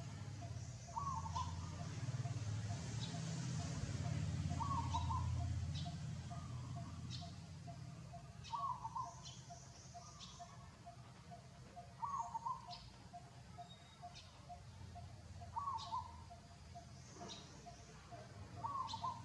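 A short chirping animal call, repeated six times about every three and a half seconds, over a fast steady pulsing tone and a low hum that is louder in the first few seconds.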